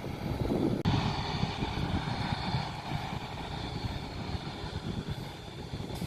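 Aircraft engine noise: a steady rumble with a faint high whine, with wind buffeting the microphone. The sound changes abruptly about a second in.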